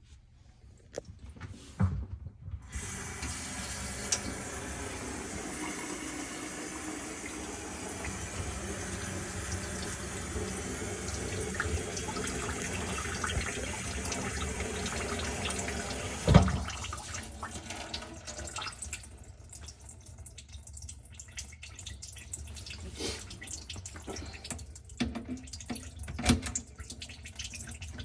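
Water running from a kitchen faucet into the sink, a steady hiss. Midway a sharp thump, the loudest sound, and after it the water runs quieter and more broken, with scattered knocks and clicks in the sink.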